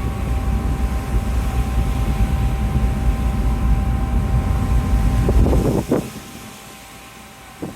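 Strong wind gust buffeting the microphone for about six seconds, then dropping away, over the steady hum of the ferry.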